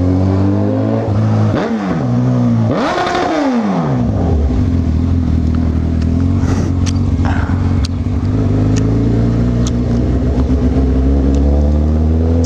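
Honda CB1000R inline-four engine under way, revving up and easing back twice in the first few seconds, then running at a steady pitch. A few sharp ticks come midway.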